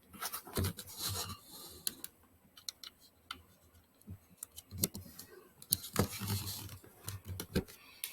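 Handling noise close to the microphone: irregular rubbing and scraping with many small clicks and taps.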